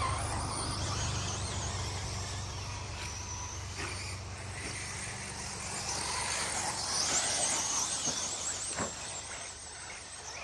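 4x4 radio-controlled short course race trucks running on the track, their motors and drivetrains whining high and wavering as they speed up and slow down. The whine grows stronger past the middle, with a few sharp knocks of trucks landing or hitting the track.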